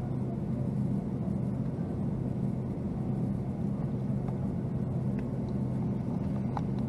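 Steady low cabin drone inside a Boeing 757-200, a constant hum with a rumbling noise beneath it and no change in level.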